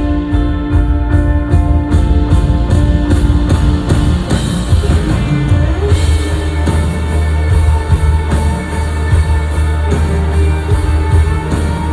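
A live band playing a loud rock-pop song with drum kit and guitar and a steady driving beat.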